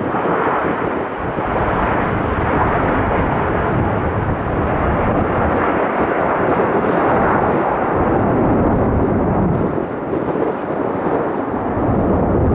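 Embraer E-175's twin CF34 turbofan engines running at high power as the regional jet departs: a steady, loud jet noise with a deep rumble underneath.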